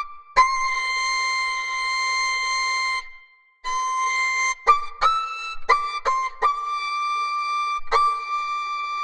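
A high, whistle-like tone playing a slow tune of held notes, each note starting with a sharp click, with a short break about three seconds in.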